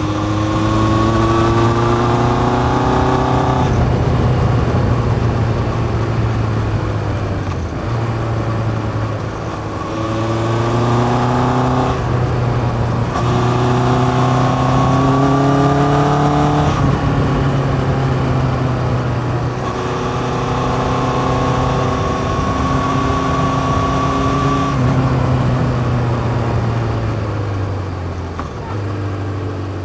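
1981 Yamaha XJ550 air-cooled inline-four with a 4-into-1 exhaust and open K&N filters, pulling through the gears. The engine note rises and drops back at each upshift several times, then falls away as the bike slows near the end.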